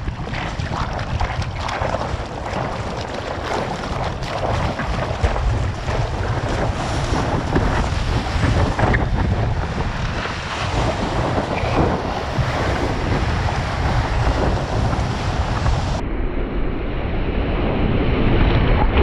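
Ocean surf breaking and washing, with heavy wind buffeting the microphone into a low rumble. About three seconds before the end the sound changes abruptly, as one recording cuts to another.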